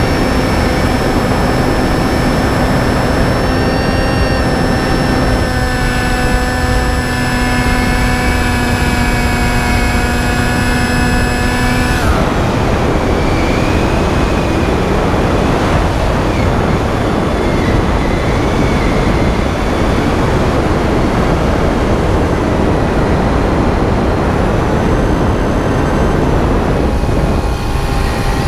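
Finwing Penguin FPV plane's electric motor and propeller whining at a steady pitch over heavy wind rush on the onboard microphone. About twelve seconds in the motor tone cuts off abruptly, leaving only the wind rush: throttle off, the plane gliding.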